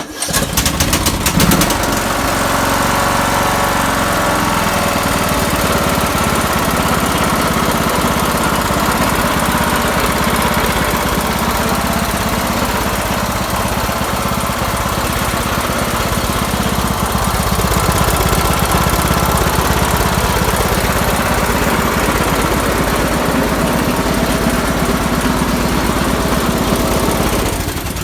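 Riding lawn tractor's small engine starting right away and running steadily, freshly tuned with a new fuel pump and spark plug. It runs smoothly and is shut off near the end.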